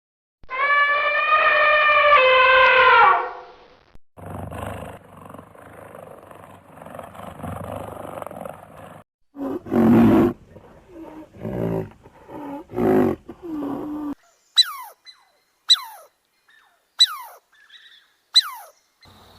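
A string of different animal calls. First a drawn-out pitched call for about three seconds, then rough growling and a run of low roaring grunts, then near the end four short, high chirps that fall steeply in pitch, about a second apart.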